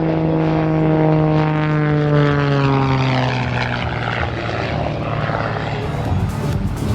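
Pitts S2 aerobatic biplane's 260 horsepower Lycoming engine and propeller, loud, its pitch falling steadily over the first few seconds, then a rougher, noisier sound.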